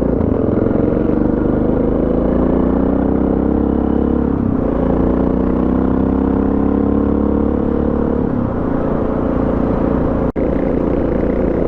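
Suzuki DR650's single-cylinder four-stroke engine accelerating through the gears, its pitch climbing and then dropping at an upshift about four and a half seconds in and again about eight and a half seconds in, then holding steady.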